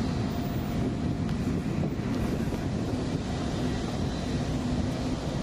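Steady low mechanical rumble with a faint hum running through it.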